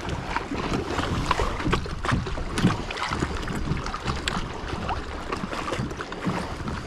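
Small water splashes and knocks against a kayak, with scattered light clicks throughout, over wind rumbling on the microphone.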